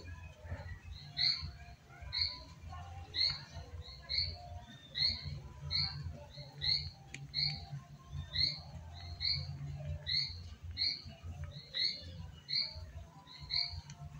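A bird calling over and over, one short chirp roughly every second, over a low steady hum.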